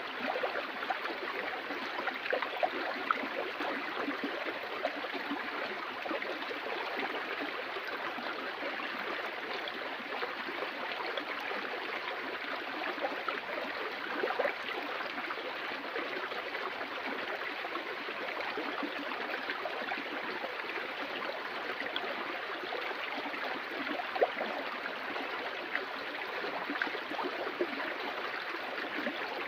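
Flowing water of a stream: a steady rush with small splashes and gurgles, and a few brief louder splashes here and there.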